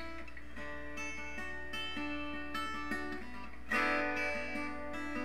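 Acoustic guitar picking single notes one after another, with a louder strummed chord about three and a half seconds in: the instrumental lead-in to a slow song.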